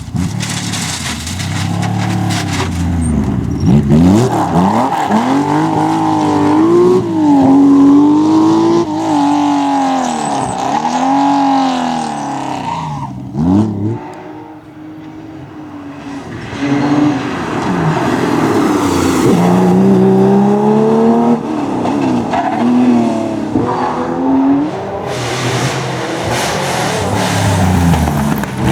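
Historic Porsche racing car engines running hard, revs rising and falling over and over through gear changes and throttle lifts. The sound drops away briefly about halfway through, then builds again.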